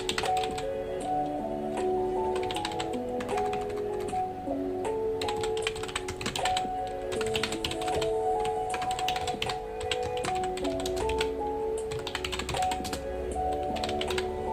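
Computer keyboard typing in irregular runs of keystrokes, played over background music: a soft melody of held notes.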